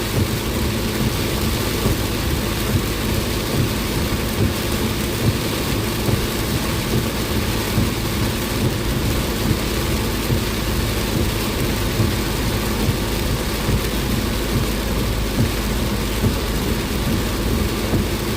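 Heavy rain pounding on a car driving through a rainstorm, a dense, steady hiss heard from inside the cabin, with a faint low steady hum from the car beneath it.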